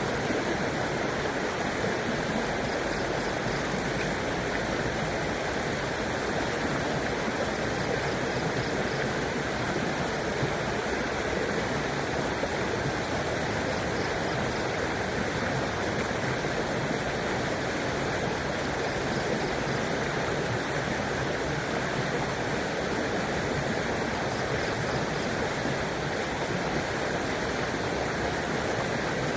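River water flowing and rushing steadily over stones, an even unbroken rush.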